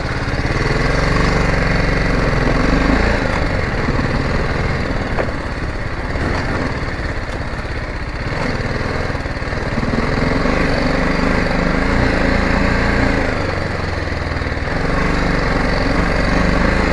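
Motorcycle engine running, its pitch rising and falling several times with the throttle.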